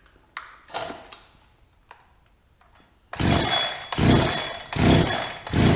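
Holzfforma 372XP two-stroke chainsaw being pull-started: a couple of small clicks, then four quick rips of the starter rope from about three seconds in, the engine cranking over each time without catching. This is a new saw that will not start.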